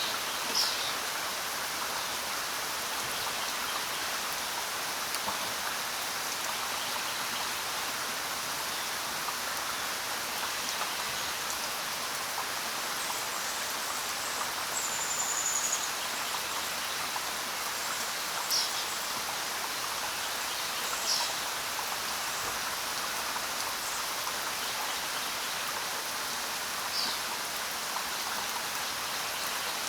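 Steady rain falling, an even hiss throughout. A bird gives short high chirps a few times, and a thin whistle sounds briefly near the middle.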